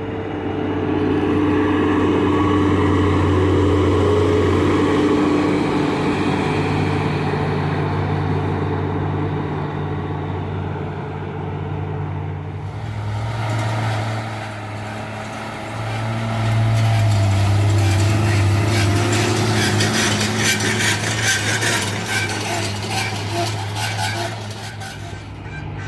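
Diesel engines of heavy earthmoving machines, a Komatsu GD655 motor grader and a tractor, working while spreading soil. The engine note swells and eases twice. From about halfway a rapid clatter joins in and fades near the end.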